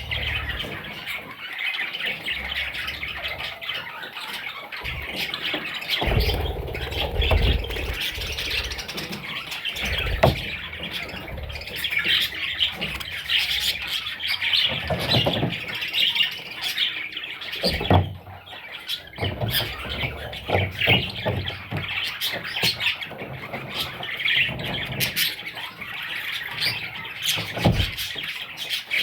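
Budgerigar chicks squawking and chirping together in a continuous, dense chatter, with a few low thumps now and then.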